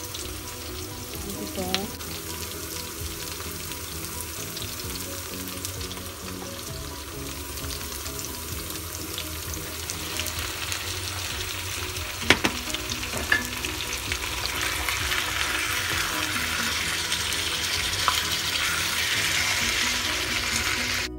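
Raw chicken pieces sizzling and frying in a hot wok with onion and peppers. The sizzle grows louder about halfway through, with a few sharp knocks against the pan.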